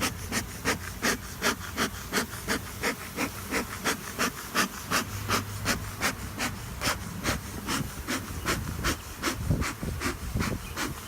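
Bee smoker's bellows being pumped over and over, each squeeze pushing out a short hiss of smoke, about two to three puffs a second.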